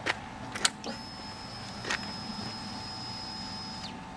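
A few sharp clicks, then a steady high-pitched whine for about three seconds that cuts off: the Yamaha FZ6R's electric fuel pump priming after the ignition is switched on, just before the engine is started.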